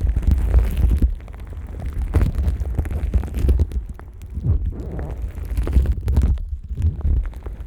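Plastic wrap over a Neumann KU100 dummy-head microphone being rubbed and crinkled by rubber-gloved hands. A heavy low rumble of handling noise runs under irregular crackling rustles that swell and fade.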